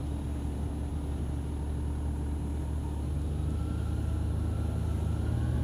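Motorcycle engine running at low road speed, its pitch rising gently from about three seconds in as the bike picks up speed.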